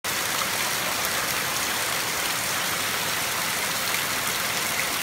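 Heavy rain pouring hard and steadily onto grass and concrete, an unbroken hiss of drops.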